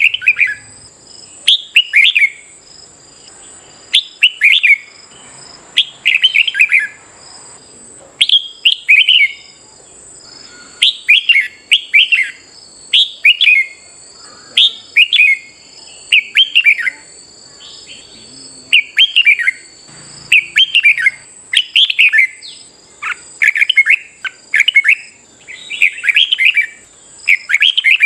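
Red-whiskered bulbuls singing in a song duel: short, loud warbled phrases repeated about once a second, one after another.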